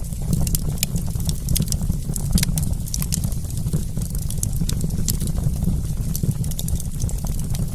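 Wood fire crackling: many quick sharp pops and snaps over a steady low rumble.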